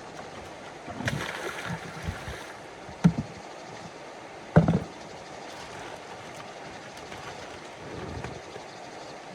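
Water splashing about a second in, over a steady rush of moving water, then two sharp thumps a second and a half apart.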